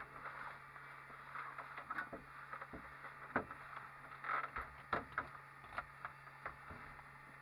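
Faint scattered clicks and knocks of switches and controls being handled in a Cessna 152 cockpit over a steady low hum, in the seconds before engine start.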